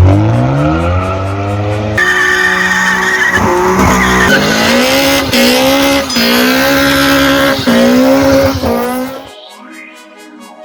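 Car engine revving hard, its pitch climbing steeply at first and then rising in steps, with tyre squeal. About nine seconds in it gives way to a much quieter, thin sweeping sound.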